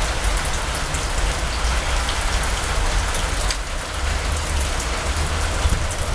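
Heavy rain falling steadily in a thunderstorm: a dense, even hiss with many sharp drop ticks scattered through it.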